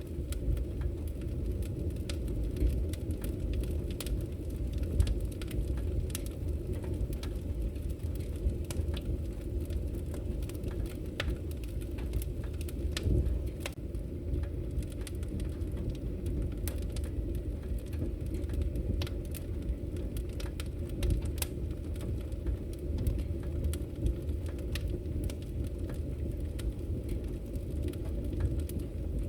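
Wood fire crackling in a fireplace: a steady low rumble of burning with frequent irregular sharp pops and crackles.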